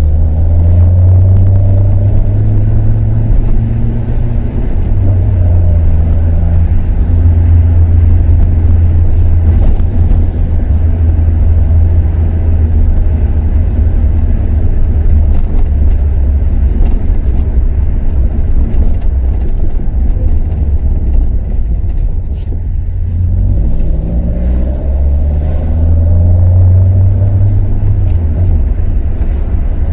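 Toyota KP61 Starlet engine with Solex carburettors and an aftermarket muffler, running under load as the car is driven. The revs climb near the start, drop off briefly about two-thirds of the way through, then climb again.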